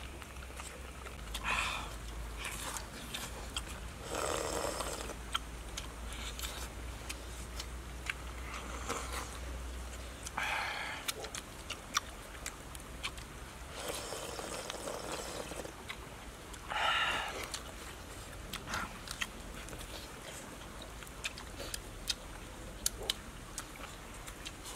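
Close-up eating sounds of people chewing meat with their mouths open: many sharp lip-smacking clicks, with about six short breathy bursts of sucking and sniffing between them.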